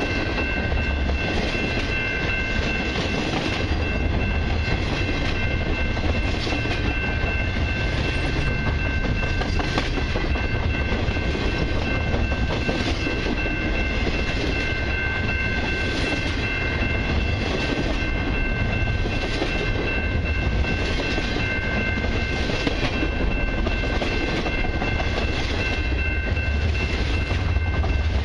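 Freight train's double-stack intermodal well cars rolling past close by: a steady rumble, with the wheels clicking over rail joints every second or two. A steady high-pitched whine runs underneath throughout.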